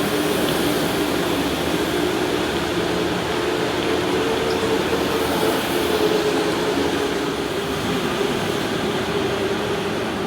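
Electric go-kart motor running steadily, a hum of several close tones that wavers slightly in pitch, over a haze of tyre and track noise.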